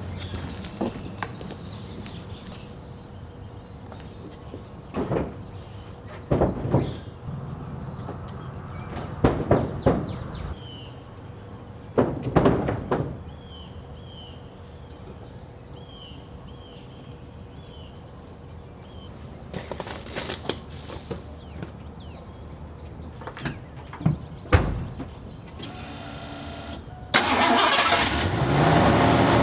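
Scattered knocks and clunks of wheels and tires being handled, with a small bird chirping repeatedly in the middle. Near the end a vehicle engine starts and keeps running loudly and steadily.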